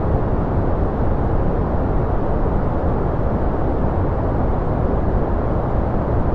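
Steady relaxation noise sold as white noise, an even, unchanging rush with no events. It is deep-toned, with little high hiss.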